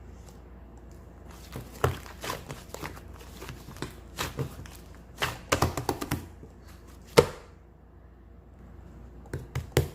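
Irregular sharp taps and knocks in a small room, scattered at first, with one loud knock about seven seconds in and a quick run of taps near the end.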